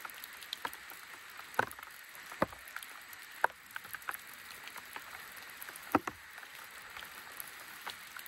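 Steady hiss of light rain, with irregular sharp taps and ticks of drops falling on the tent and tarp.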